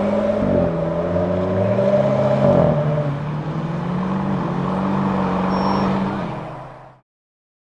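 Lamborghini Huracan STO's naturally aspirated V10 pulling hard under acceleration, its pitch dropping twice at upshifts, then fading away to silence about seven seconds in.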